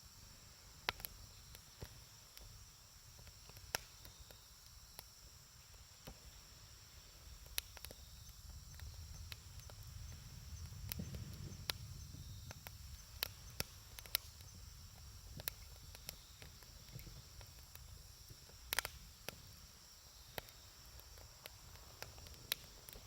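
Wood campfire crackling: irregular sharp pops and snaps over a low rumble that swells around the middle.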